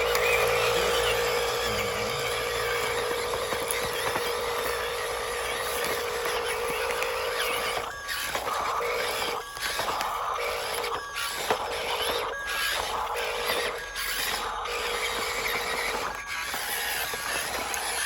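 Radio-controlled dump truck's electric motor and gearbox whirring with a steady whine, then after about eight seconds stopping and starting again in short spurts several times.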